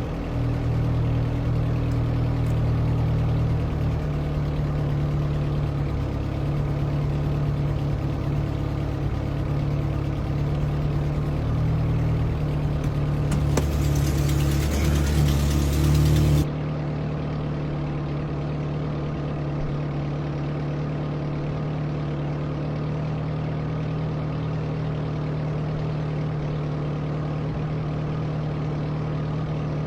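Carbureted Toyota 22R four-cylinder engine idling steadily during its warm-up after a cold start. About halfway through, a hiss comes in for about three seconds. Then the sound drops suddenly to a quieter, thinner idle.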